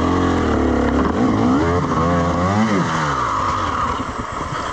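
Dirt bike engine revving hard on a slippery climb, its pitch rising and falling several times as the throttle is worked.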